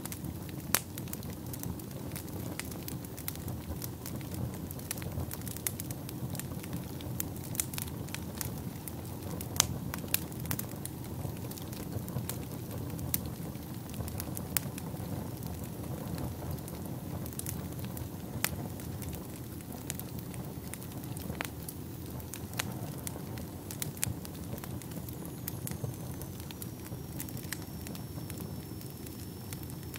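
Wood fire burning in a fireplace: a steady low rumble of flames with irregular sharp crackles and pops from the burning logs, and a faint high thin tone in the last few seconds.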